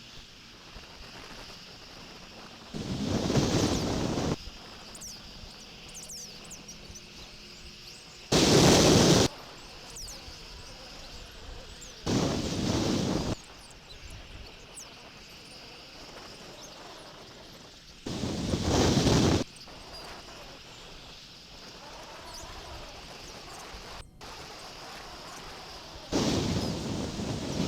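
Bald eagle flapping its wings on the nest close to the nest-cam microphone: five loud rushes of noise, each a second or so long, that start and stop abruptly. Faint bird chirps can be heard between them.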